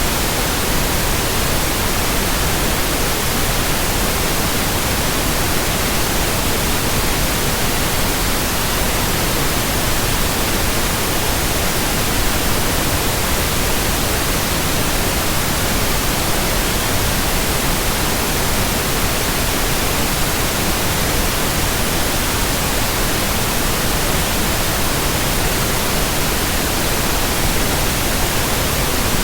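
Steady, unchanging hiss of white noise, spread evenly from low to high pitches, with no rhythm, tone or break.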